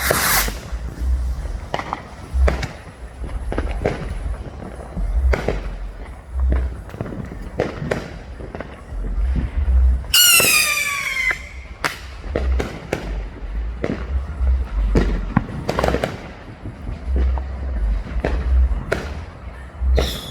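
Consumer fireworks going off all around: a steady string of sharp bangs and pops over low booms. About ten seconds in, a whistling firework sounds for about a second, its pitch falling.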